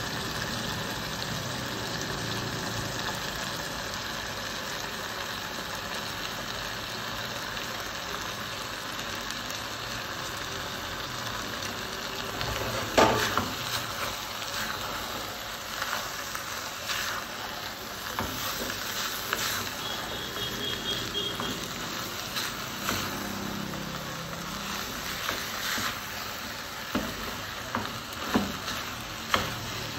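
Steady frying sizzle from minced beef sauce in a stainless steel pot as boiled rice goes in. From about thirteen seconds in, a spatula stirs the rice, with scattered knocks against the pot, the first the loudest.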